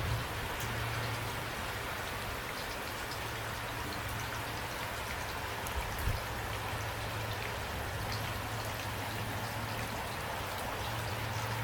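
Steady rain falling, a continuous hiss with many individual drops ticking on surfaces.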